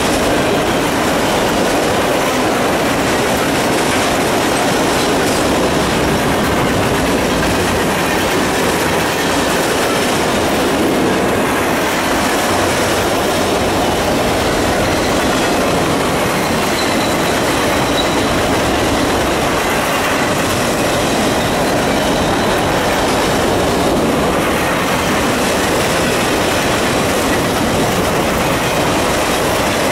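CSX freight train's boxcars and tank cars rolling past close by: a steady, loud noise of steel wheels running on the rails.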